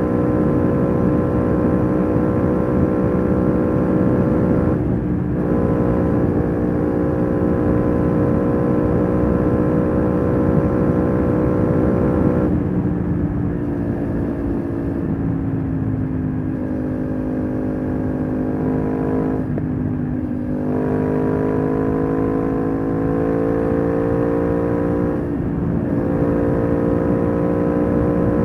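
Aprilia RS 660 parallel-twin engine running through an SC-Project SC1-R aftermarket exhaust under way, holding a fairly steady note. The note cuts out briefly four times as gears are changed, and its pitch settles a little lower or higher after each change.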